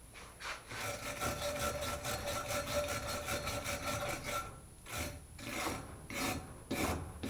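Hand wire brush scrubbing rust off a metal wrench: rapid back-and-forth scraping strokes with a faint ringing from the metal, which after about four seconds slow to separate strokes about every half second.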